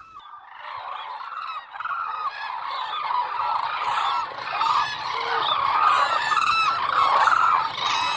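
A flock of common cranes calling, many loud trumpeting calls overlapping, the sound growing louder over the first few seconds.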